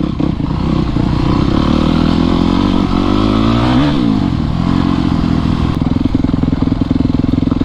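Dirt bike engine running steadily while riding over a rocky trail, its pitch rising and falling once about four seconds in.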